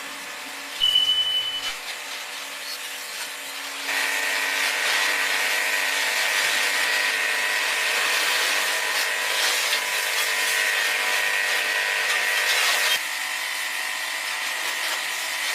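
A power tool running steadily, with a whine and a rough rubbing, abrasive noise, as in work on rusty metal parts. There is a short loud burst about a second in.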